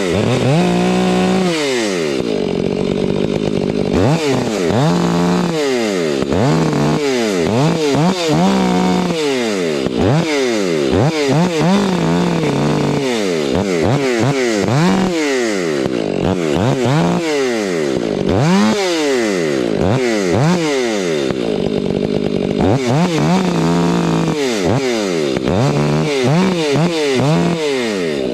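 Chainsaw revving up and down over and over, roughly once a second, while cutting up a silver maple.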